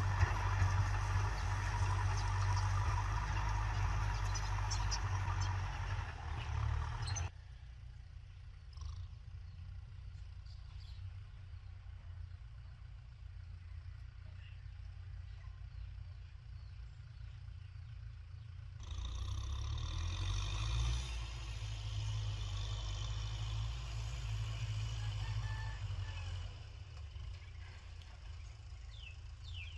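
Kubota M6040 tractor's diesel engine running steadily. It drops suddenly to a fainter level about seven seconds in and comes back just as suddenly about eleven seconds later.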